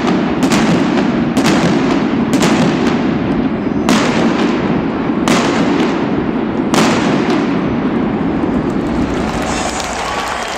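Indoor stadium fireworks going off in a string of sharp bangs, about one a second at first and more spaced out later, each echoing under the dome roof, over a steady crowd din.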